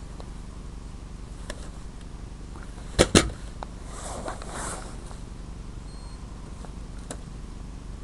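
Two sharp clicks close together about three seconds in, then about a second of rustling, over a steady low hum.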